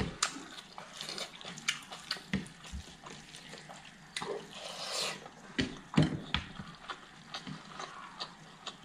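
Close-up eating sounds: wet chewing and lip smacks with many short, scattered clicks, and the soft squelch of rice porridge being mixed and gathered by hand.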